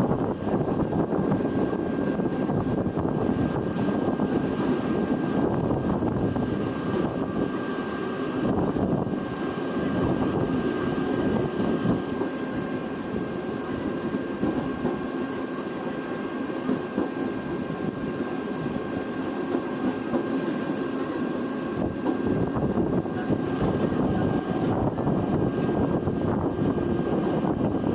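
A train passing on the track: a steady rumble of wheels on rails with a thin, high steady tone over it.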